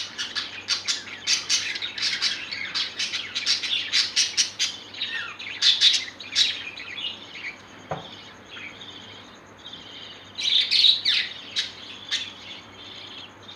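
Parrots chirping and chattering in rapid, high, overlapping calls. The calls thin out about halfway through and pick up again in a loud burst near the end.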